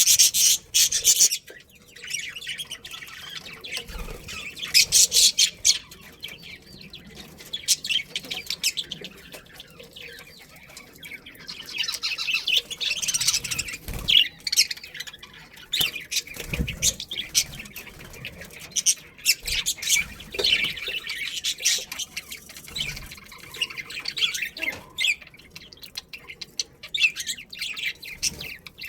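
Budgerigars chattering: a dense run of quick, high-pitched chirps and squawks that comes and goes in louder spells.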